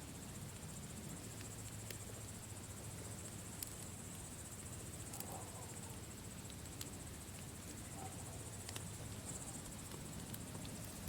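Campfire crackling, with scattered sharp pops over a low steady rumble, under a constant high-pitched chirring.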